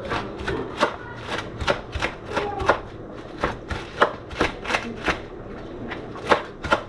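Knife chopping fresh dill and parsley on a cutting board, sharp even strokes at about three a second.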